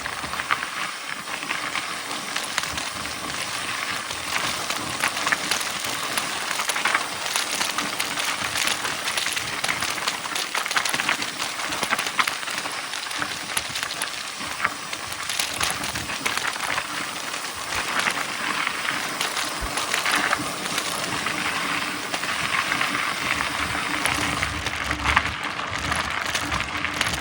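Mountain bike riding fast over a dirt trail: tyres crunching on the ground under a steady noise, with frequent clicks and rattles from the bike over the bumps.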